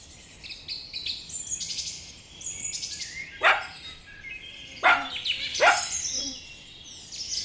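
A puppy barking three times in short, sharp yaps, about three and a half, five and nearly six seconds in, over many birds chirping throughout.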